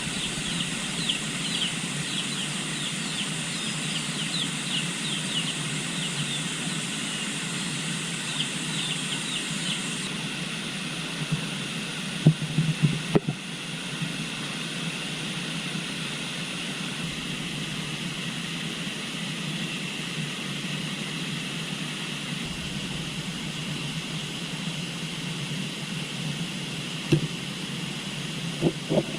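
River water flowing steadily. Short, high chirps repeat over the first ten seconds, and a few soft knocks fall about twelve seconds in.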